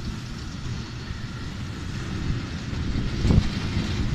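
Vintage passenger coaches rolling past close by: a steady rumble of steel wheels on the rails, with two louder thumps about three seconds in and at the end.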